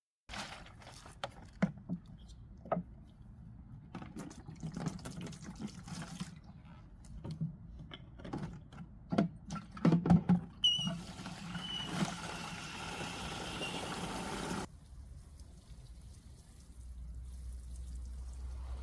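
Scattered light clicks and knocks of handling, then running water for about four seconds that starts and stops abruptly.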